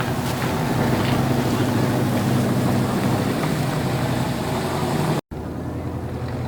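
Car engine running with a steady low rumble. A little past five seconds the sound cuts out for an instant and comes back quieter.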